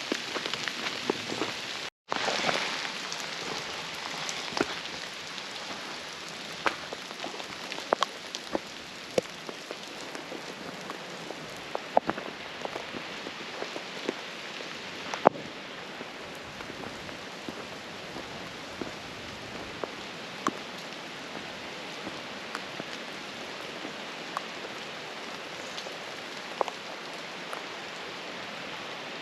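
Steady rain falling, with scattered sharper drops ticking irregularly close by. There is a brief cut-out in the sound about two seconds in.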